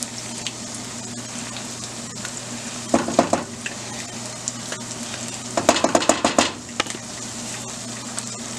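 Ground beef and green peppers sizzling in a pot, with a wooden spoon scraping and knocking against a tomato paste can in two quick bursts of clicks, about three seconds in and again around six seconds.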